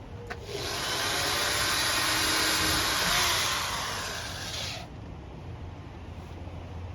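Power drill running for about four seconds as it drills a hole through the teardrop trailer's side sheet, then stopping. A click comes just before the drill starts.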